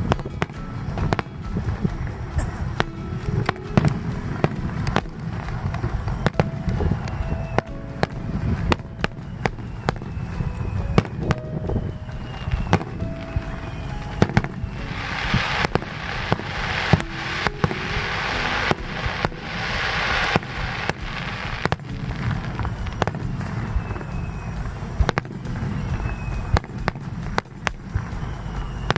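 Fireworks display: a rapid run of shell bursts with sharp bangs over a rolling low rumble and a few faint falling whistles. A dense crackling of glitter shells fills several seconds past the middle.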